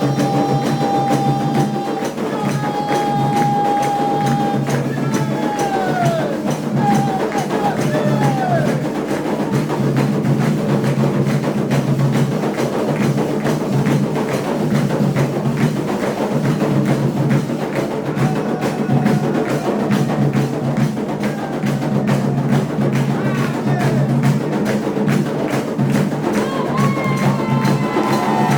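A Candomblé song for Xangô: voices singing over steady drum and percussion playing, with dense, fast hand-clapping throughout.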